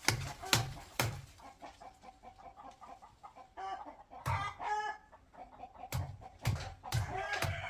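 Chickens clucking, with a run of short pitched calls in the middle.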